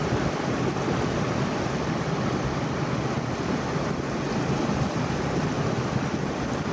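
Steady rushing noise of ocean surf and wind on the beach.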